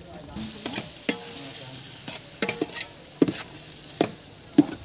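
Onions with ginger-garlic paste frying in oil in a large aluminium pot, sizzling with a steady hiss, while a flat metal spatula stirs and scrapes against the pot, giving sharp clinks about every half second.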